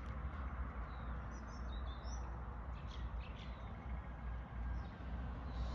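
A few short, high bird chirps over a steady low rumble of outdoor background noise.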